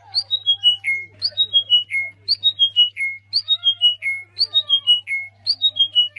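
A bird singing the same short phrase over and over, about once a second: five or so clear whistled notes stepping down in pitch and ending on a lower held note. A steady low hum runs underneath.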